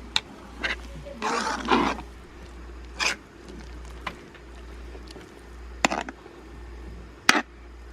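Mixing utensil stirring thick cassava cake batter in a bowl, with irregular scrapes and knocks against the bowl, one longer scrape about a second and a half in, over a steady low hum.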